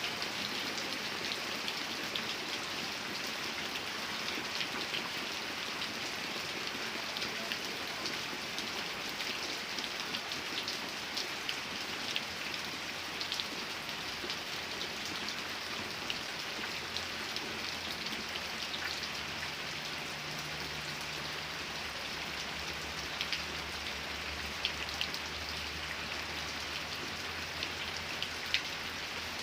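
Steady rain falling, with single drops ticking sharply on top of the rush. A faint low rumble joins in about two-thirds of the way through.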